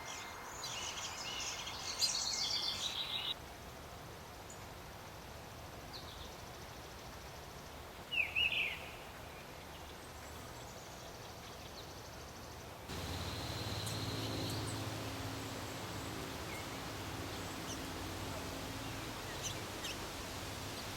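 Outdoor ambience with birds chirping. A dense run of high chirps fills the first few seconds, and one louder call comes about 8 seconds in. Later, faint chirps sound over a low steady hum.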